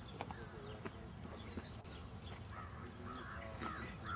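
Faint outdoor background with a bird calling several times in the second half, short repeated calls.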